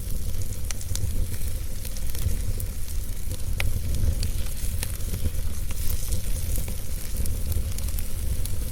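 Fire crackling: scattered sharp pops and ticks over a steady hiss, with a constant low rumble underneath.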